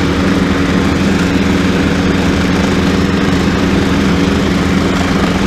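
Tractor engine running steadily at 540 PTO speed, driving a bush hog rotary cutter through tall grass.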